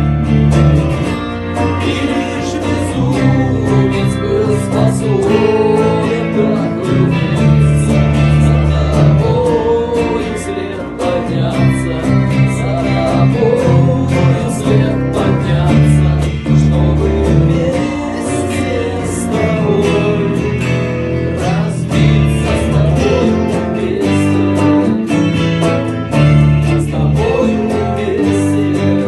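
Guitar and bass guitar playing an instrumental passage of a song, with a deep bass line under a wavering melodic lead.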